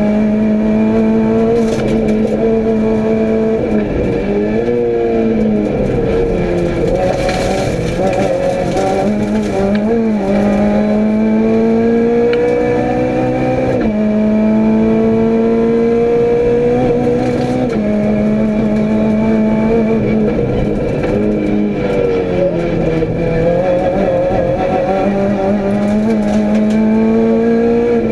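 Renault Clio rally car's engine, heard from inside the cabin, driven hard on a rally stage: the revs climb and drop in steps with gear changes, falling away deeply a few times under braking and downshifts, with road and tyre noise underneath.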